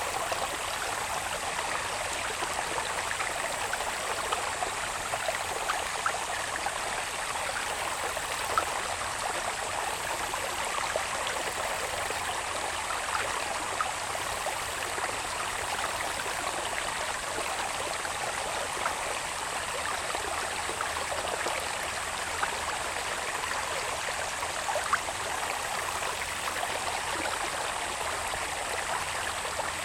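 A small irrigation channel babbling steadily, with little splashes here and there. Over it sits a thin, steady high-pitched insect drone.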